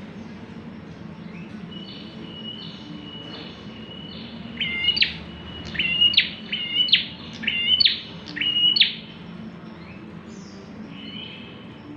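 A prenjak klawu (a prinia) singing vigorously. Softer thin notes at first, then about halfway through a loud run of about six sharp, rising notes, roughly one a second, before it drops back to quieter calls.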